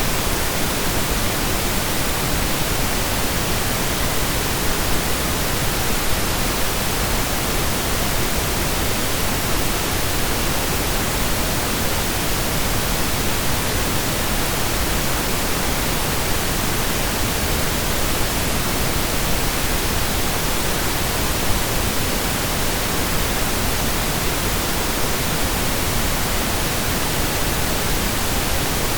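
Steady synthesized pink noise: an even hiss spread across the whole range, like steady rain or a waterfall, unchanging throughout.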